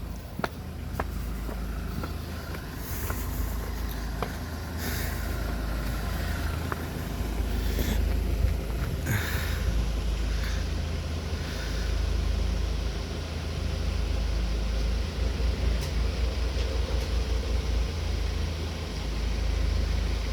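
Road vehicles passing, with several swells of tyre and engine noise in the first half. A constant low rumble with fluttering pulses later on is wind on the microphone.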